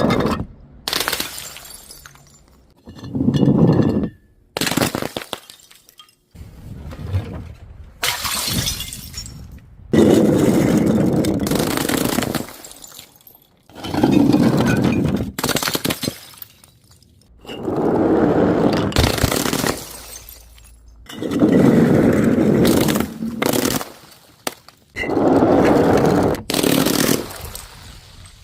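Glass bottles shattering and crunching, one after another, in about a dozen short loud bursts that each start and stop abruptly.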